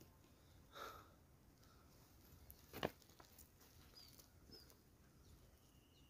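Near silence, broken by two faint, short, high bird chirps and a single sharp click about three seconds in.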